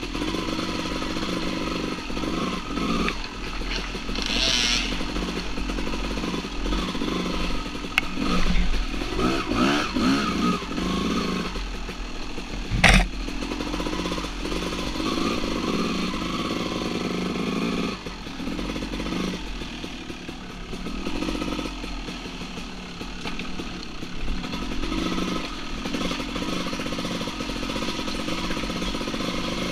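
Two-stroke dirt bike engine running on and off the throttle, with a run of throttle blips about 8 to 11 seconds in. A single sharp knock, the loudest moment, about 13 seconds in.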